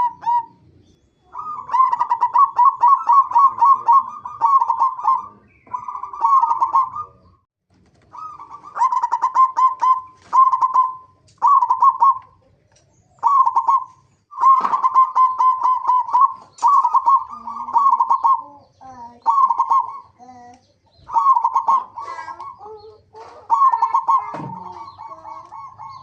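Zebra dove (perkutut) cooing: quick pulsed notes run together into phrases of a second or two, repeated again and again with short pauses between them.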